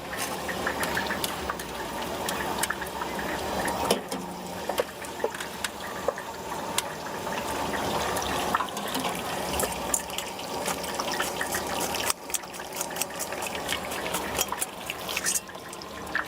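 Tofu deep-frying in hot oil, a steady bubbling sizzle with many small pops and crackles.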